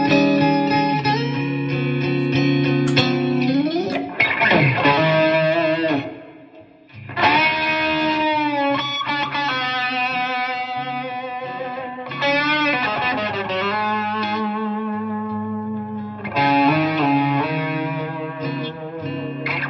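Donner DST-100L S-type electric guitar played through an amplifier with effects: held chords and single notes that waver and slide in pitch. The playing drops away briefly about six seconds in, then carries on.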